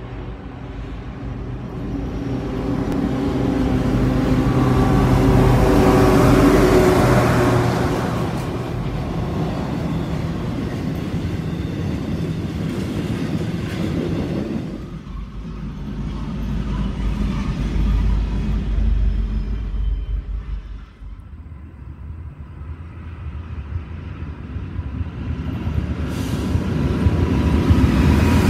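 Norfolk Southern freight train passing: the drone of its diesel locomotives swells to its loudest about six seconds in, followed by the steady rumble and clatter of intermodal cars rolling by. Near the end another set of diesel locomotives draws close and grows louder.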